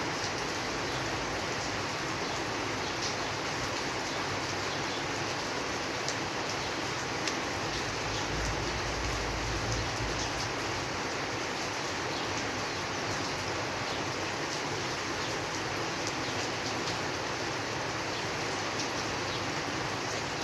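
Steady rain: an even hiss with scattered faint drop ticks and a brief low rumble about halfway through.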